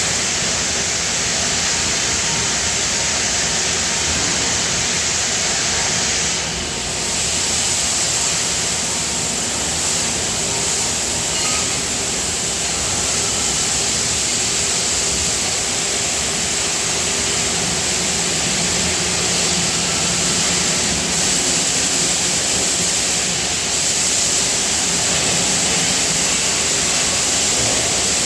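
Steady, loud hiss-like din of running die-casting factory machinery, with a brief dip about six and a half seconds in.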